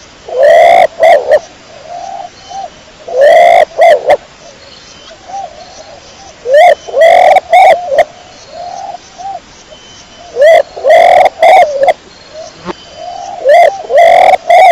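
Domestic pigeon cooing: loud, repeated coo phrases about every three to four seconds, with softer coos between them. The loudest calls are recorded hot enough to distort.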